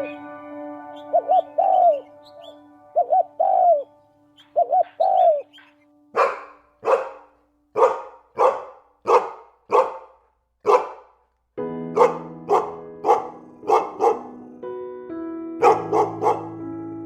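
A bird calling in short paired hoots, then a dog barking in a steady run of sharp barks, about one and a half a second, over background music.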